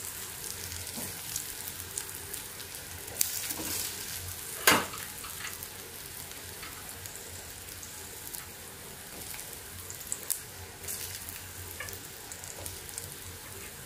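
Cabbage-and-spinach bites shallow-frying in a kadhai of hot oil tempered with mustard and cumin seeds: a steady sizzle with scattered small crackles, and a sharper click about five seconds in.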